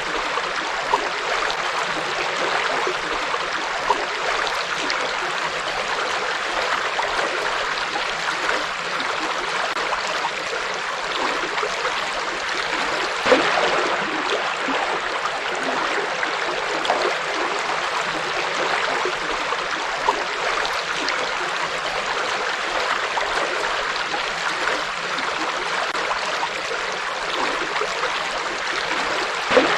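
A river flowing over rocks with steady rushing and burbling water, with a few brief louder splashes.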